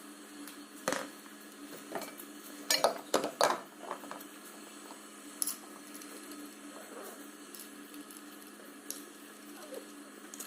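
Metal tools and engine parts clinking and clanking as they are handled: a few scattered sharp knocks, with a tight cluster about three seconds in, over a steady low hum.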